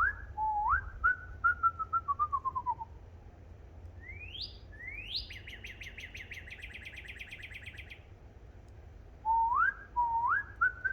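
A person whistling through the lips to imitate a bird call: two quick upward slides, then a run of short notes falling in pitch, given once at the start and again near the end. In between, a bird-like call of two fast rising sweeps followed by a rapid trill lasting about three seconds.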